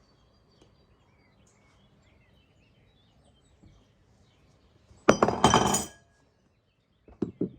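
Faint bird chirps over a quiet background, then, about five seconds in, a sudden loud clinking clatter of hard objects lasting under a second, followed by a few short clicks near the end.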